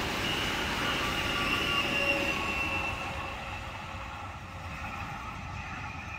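Appenzeller Bahnen Stadler 'Walzer' electric train with added carriages rolling away on its metre-gauge track, its running rumble and a thin high whine from the wheels fading steadily.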